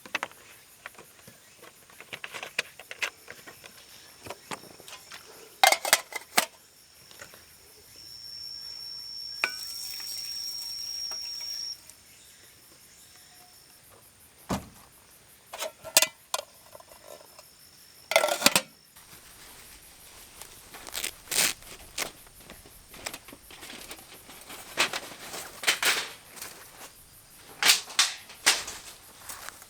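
Gear being handled at a camp: irregular clinks and knocks, with a faint steady high insect call behind them. A steady hiss runs for about four seconds in the middle.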